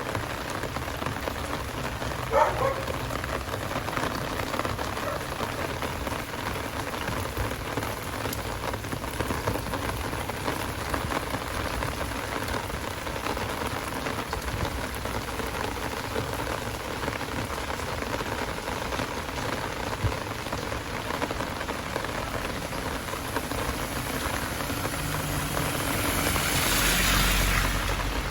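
Heavy rain falling steadily in a continuous hiss of drops on surfaces, with one brief short sound about two seconds in. Near the end a vehicle's rumble and tyre hiss swell up and fade as it passes on the wet road.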